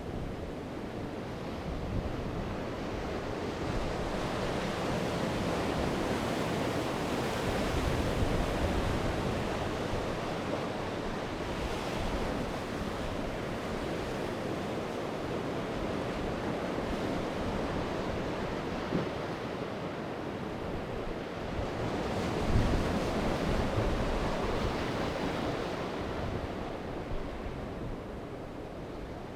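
Sea waves breaking and washing onto the shore in a continuous rush, swelling louder twice: once about a quarter of the way in and again past the middle.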